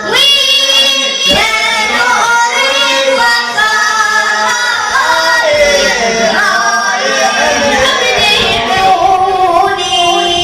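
A radood's solo voice chanting an Arabic religious lament, with long, sliding, ornamented phrases that break briefly for breath.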